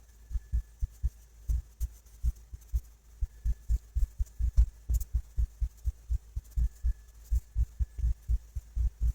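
Irregular dull low thumps, several a second, with a faint high tone coming and going.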